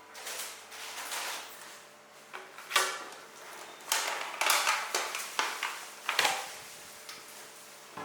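A string of irregular short knocks, scrapes and rustles of objects being handled and moved about in a small room, the sharpest about three seconds in and again about six seconds in.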